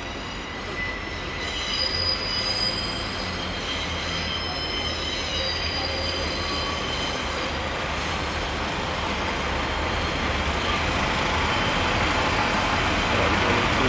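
A steam-hauled train, A1 Pacific 60163 Tornado and its coaches, rolling slowly over curved pointwork. The wheels squeal in high, thin tones that come and go over the first several seconds, over a steady rumble that grows louder as the train approaches.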